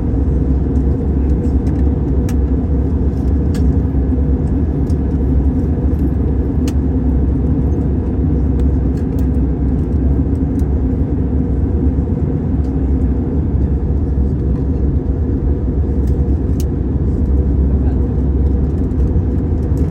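Steady low rumble of an airliner on its approach to land, heard as unchanging cabin noise with a few faint ticks.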